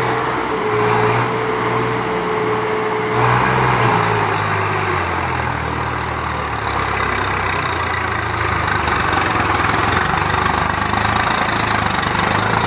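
Swaraj 744 tractor's three-cylinder diesel engine running steadily. About three to four seconds in its note drops to a lower speed, then holds there.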